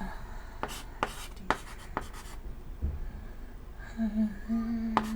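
Chalk writing on a chalkboard: a run of short scratchy strokes, then a low thud. About four seconds in a low steady hum comes in and holds for about a second and a half.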